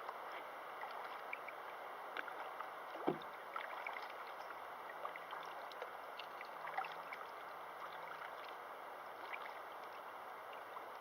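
River water flowing, a steady rush dotted with small splashes and ticks, with one duller knock about three seconds in.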